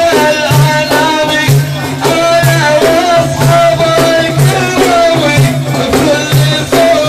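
Sufi dhikr chanting: a solo voice sings a melodic line over hand drums beaten in a steady rhythm, with a rattling jingle on the beats.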